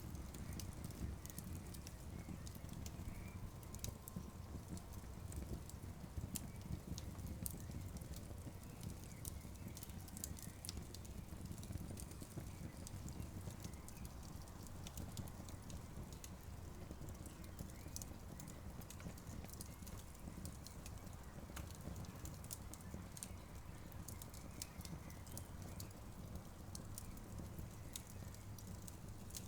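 Campfire burning with irregular sharp crackles and pops of the wood, over a steady low rumble.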